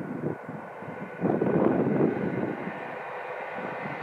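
SJ passenger train hauled by an Rc electric locomotive, heard from a distance: an uneven rumble that swells a little over a second in, under a faint steady whine.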